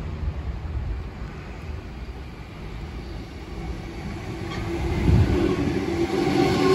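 Sydney Trains double-deck electric train running in along the platform: a low rumble that grows louder from about four seconds in, with a steady high whine joining it near the end.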